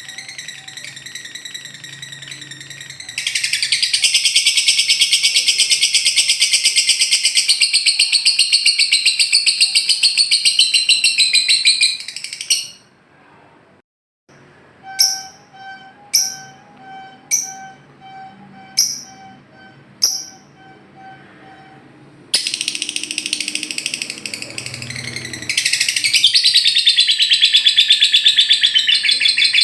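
Lovebird 'ngekek' song: long, fast, high-pitched chattering trills, one running for about nine seconds, then after a short break six sharp separate chirps about a second apart, before the rapid trill starts again. This long chatter is the lovebird's show song, played to set other lovebirds singing.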